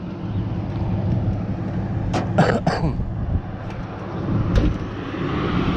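A vehicle engine running steadily in the background, with a few sharp clanks about two seconds in.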